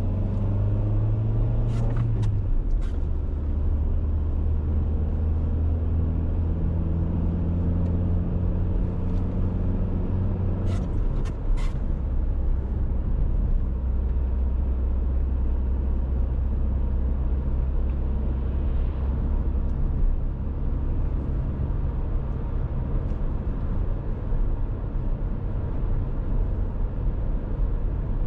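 Dacia Duster 1.6 SCe's naturally aspirated four-cylinder petrol engine running steadily on the move, over road and tyre noise. The engine note steps down twice, about two seconds in and again about eleven seconds in, with a few sharp clicks around each step.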